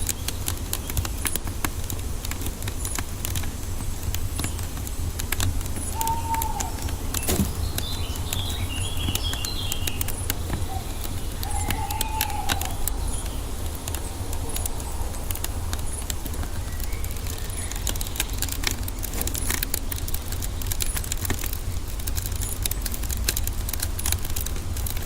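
Wood fire crackling with many small pops over a low steady rumble, with forest birdsong: short whistled calls about 6 and 12 seconds in and a brief higher twittering between them.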